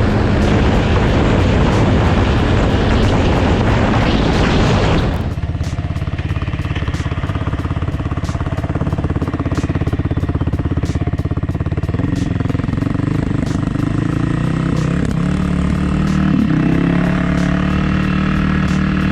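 Dirt bike engine running while riding. Heavy wind rush covers it for the first five seconds, then it cuts away abruptly to a clear, steady engine note that steps up in pitch twice in the second half.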